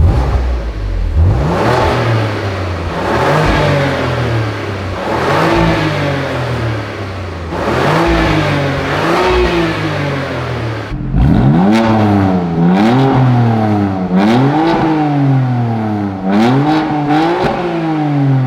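BMW M2 Competition's twin-turbo inline-six, on its factory exhaust, starting with a sudden loud burst and then revved over and over. The pitch climbs and drops back roughly every one and a half to two seconds, with sharper, higher revs in the second half.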